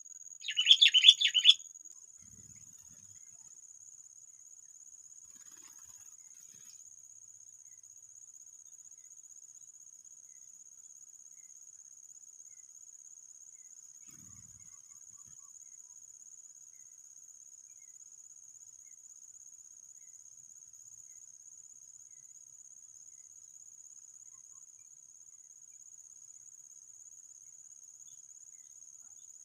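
A bird gives one loud burst of chattering calls, about a second long, just after the start. Under it a steady high-pitched insect trill carries on throughout.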